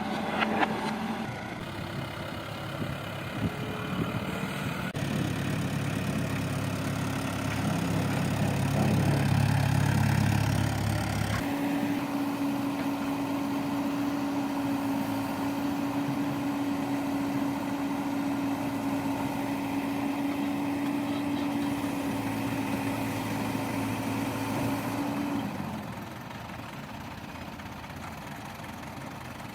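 Diesel engine of an earth-moving machine running steadily, its note changing abruptly about 5, 11 and 25 seconds in as one stretch of running gives way to another; it is loudest and deepest between about 5 and 11 seconds in.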